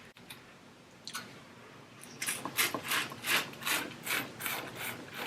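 Crab shell crackling and crunching as it is broken apart by hand, in a quick series of about three crunches a second that starts about two seconds in.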